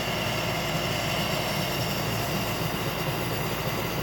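Steady machine running noise with a rushing-air hiss, unchanging throughout, from the car air-conditioning evaporator cleaning work.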